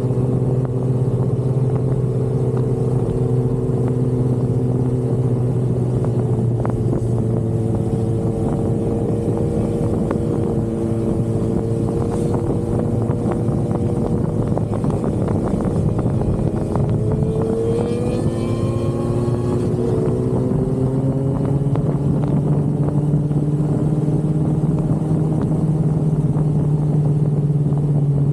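Sport motorcycle engine running at a steady cruise, its note drifting slightly up and down. Midway the steady tone turns rougher and noisier, and about two-thirds of the way in a higher engine note rises briefly.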